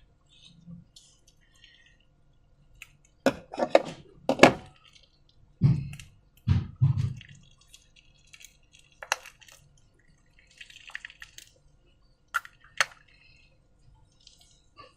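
Slime being worked by hand: a cluster of sharp, wet, sticky clicks about three to four seconds in, then two deeper squelches around six to seven seconds, then a few scattered clicks.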